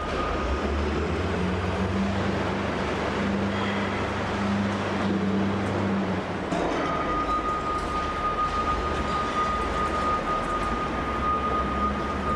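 Heavy machinery running steadily, a noisy rumble with a low engine hum that fades about six seconds in and a thin high whine that returns a little later.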